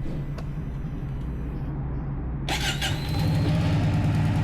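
Harley-Davidson Nightster Special's V-twin idling through a Jekill & Hyde valved exhaust still in its quieter setting. A short hiss comes in about two and a half seconds in, and the engine gets a little louder after it.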